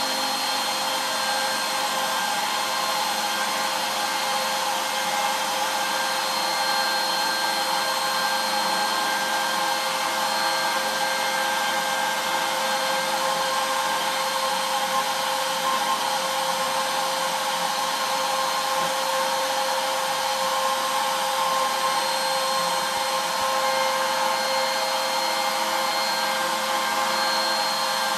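CNC router spindle running steadily with a high whine, a small ball-nose bit cutting walnut in the finishing pass of a 3D relief carving.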